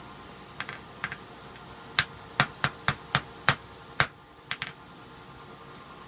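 Hammer strikes on metal during forging. A few light taps come first, then a quick, slightly uneven run of about seven hard blows, then two lighter taps, all over a steady background hum.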